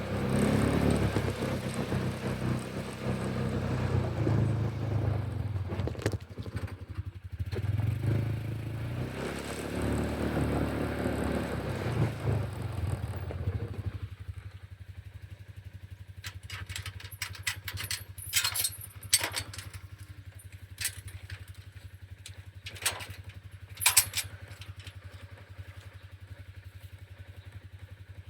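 A vehicle engine running with an uneven, varying rumble, then dropping to a steady low idle about halfway through. Over the idle come a run of sharp clicks and metallic clatters.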